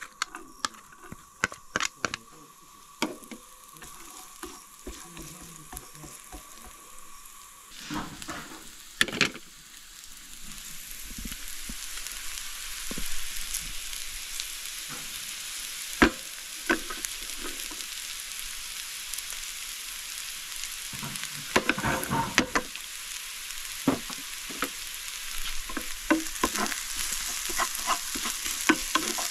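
Chopped onion and carrot frying in vegetable oil in a non-stick pan. The sizzle builds from about ten seconds in and holds steady, while a wooden spatula stirs and knocks against the pan now and then.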